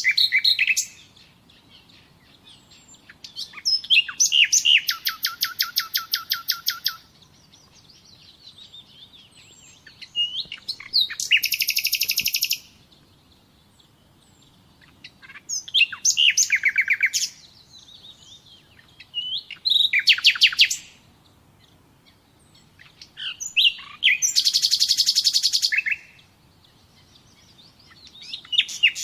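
A songbird singing in separate phrases a few seconds apart. Each phrase is a fast trill of evenly repeated high notes lasting one to three seconds.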